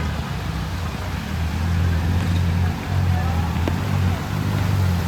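Steady low rumble of motor traffic engines running, under a general street hiss.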